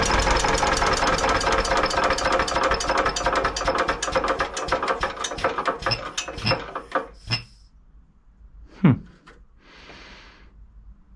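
Antique diesel generator engine running with a fast, even rattling knock, which the owner doubts is healthy. Its strokes then slow and spread out until it stops about seven seconds in. A short sound sliding down in pitch and a brief hiss follow.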